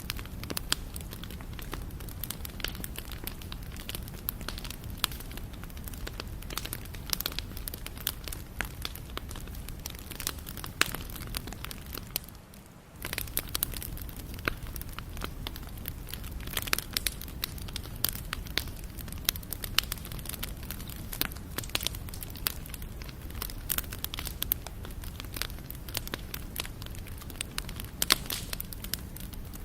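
Wood campfire burning, crackling with frequent sharp pops and snaps over a low steady rumble of the flames. The sound dips briefly about halfway through, then resumes as before.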